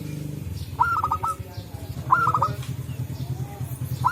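Zebra doves (perkutut) cooing: two short staccato phrases of four or five quick notes each, about a second in and about two seconds in, with a fainter answering call after. A low rhythmic pulsing runs underneath.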